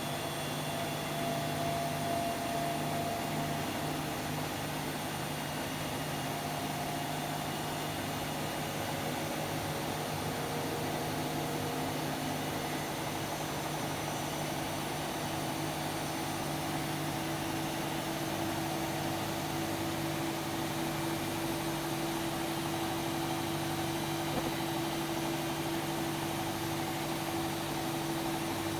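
Hotpoint-Ariston AQD972F 697 washer-dryer running: a steady machine hum with a faint hiss, joined about halfway through by a steady higher tone.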